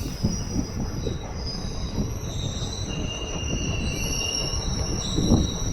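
Passenger train pulling into a station: high, steady metallic squeal from the wheels and brakes over the low rumble and clatter of the carriages, with a few louder knocks near the end.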